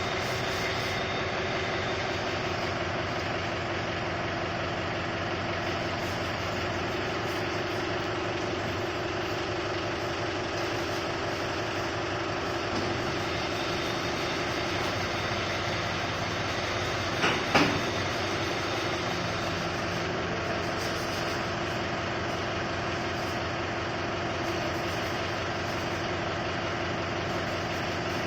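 Mahindra 575 tractor's four-cylinder diesel engine running steadily, with two sharp knocks in quick succession about two-thirds of the way through.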